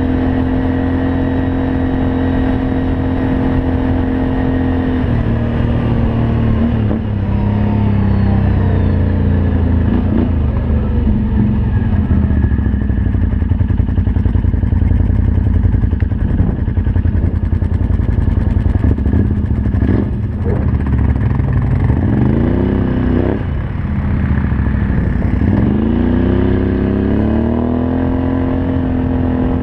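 Can-Am Outlander 500 ATV's V-twin engine through a Yoshimura aftermarket exhaust while riding. It holds steady revs for about five seconds, then the revs fall and rise with the throttle, dropping off twice in the second half before climbing again near the end.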